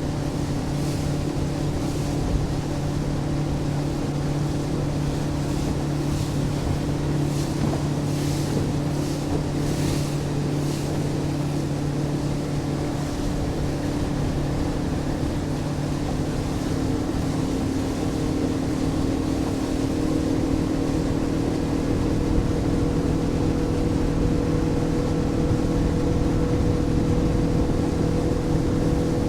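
Motorboat engine running steadily at speed, with water and wind rushing past. About halfway through, the engine note shifts and grows a little louder.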